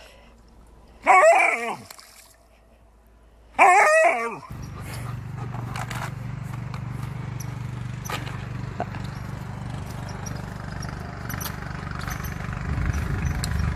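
A dog gives two drawn-out barks, about two and a half seconds apart. Then a steady low hum with faint scattered clicks takes over.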